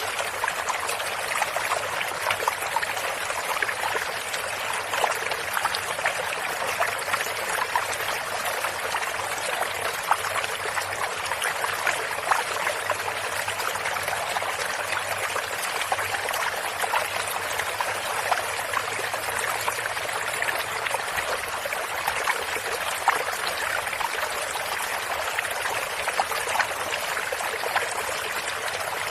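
A stream of running water flowing steadily, with small splashes and trickles throughout.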